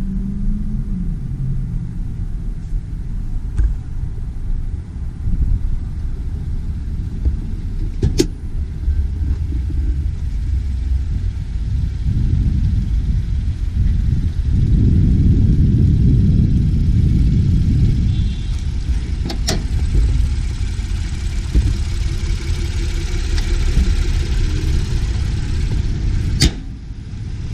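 Motor vehicle running with a steady low rumble, swelling for a few seconds past the middle, with a few sharp clicks.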